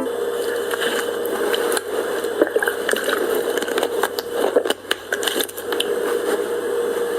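Steady noise of a car's cabin while driving, with a faint hum and scattered clicks and knocks.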